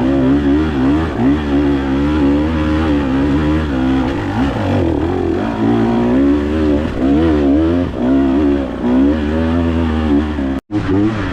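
Dirt bike engine revving up and down as it is ridden, the pitch climbing and dropping over and over with throttle changes.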